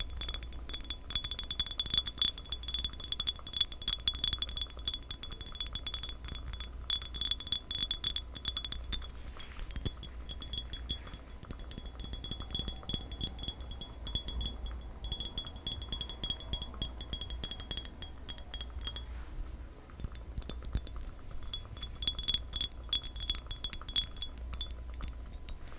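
Rapid light tapping on glass, dense clicks over a steady high ringing tone that drops out briefly a few times.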